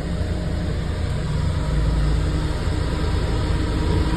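Steady low engine rumble with a continuous hum, holding level without spooling up or down.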